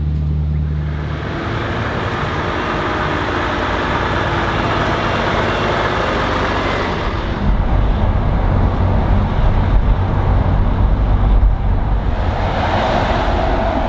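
Heavy truck running with road noise: a steady low engine hum at first, then a fuller wash of noise, with a heavier, uneven low rumble from about halfway.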